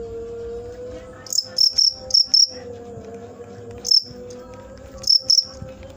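Cricket chirping: loud, short, high-pitched chirps in quick clusters, starting about a second in and recurring several times. A steady low hum runs underneath.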